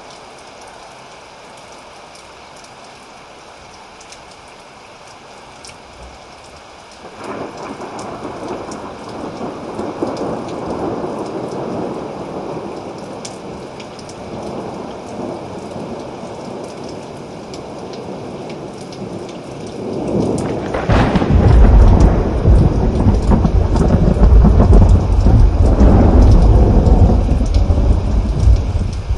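Thunderstorm: steady rain, with a rumble of thunder rolling in about seven seconds in and a much louder, deep, long peal of thunder starting about two-thirds of the way through and dropping away at the end.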